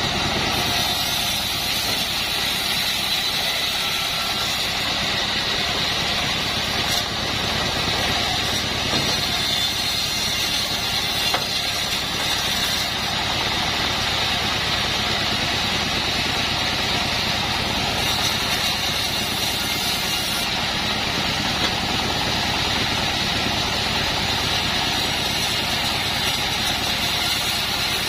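Engine-driven assembled bandsaw mill running steadily while it saws a wood beam, with a steady high-pitched hiss over the engine.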